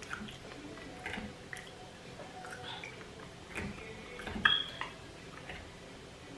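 Close-up eating sounds: wet chewing and lip smacks, with scattered short clicks and squelches, the loudest about four and a half seconds in.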